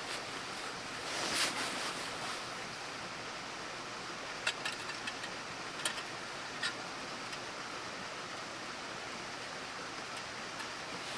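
Campfire burning with a steady hiss and a few sharp pops of crackling wood in the middle.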